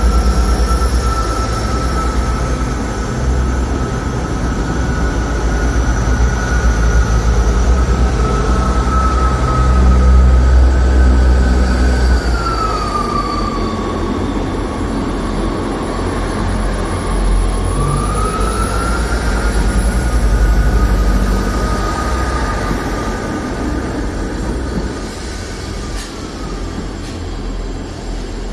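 South Western Railway diesel multiple unit pulling slowly past with its diesel engines rumbling low, and a steady high squeal from the wheels on the curving track. The squeal dips in pitch about halfway through, rises again, and fades as the train clears the platform.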